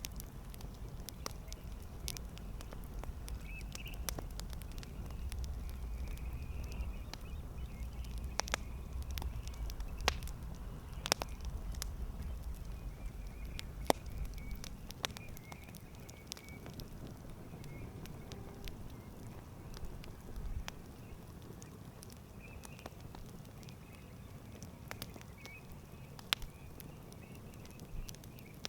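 Wood campfire crackling, with irregular sharp pops, the loudest of them in the first half, over a low rumble that fades out about halfway through.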